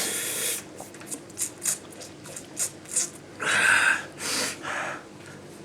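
A man breathing hard through pain: a run of short, quick sharp breaths, then three longer, louder breaths about three and a half seconds in, the first of them the loudest.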